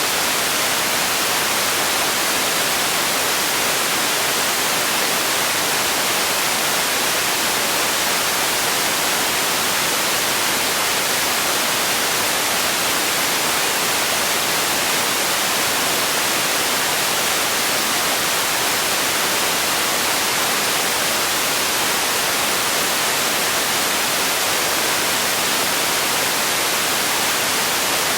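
Steady white noise for sleep: an even, unbroken hiss, strongest in the high end, that does not change.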